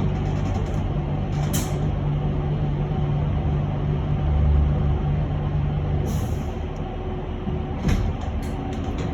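Electric bus heard from inside the cabin while standing at a stop: a steady low hum with a held low tone that cuts off about six seconds in. Two short compressed-air hisses come at about one and a half seconds and about six seconds, and a few short clicks follow near the end.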